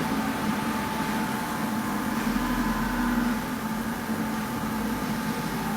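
JLA commercial washing machine in its final spin, the drum held at top speed: a steady whir with a low hum and a faint higher whine.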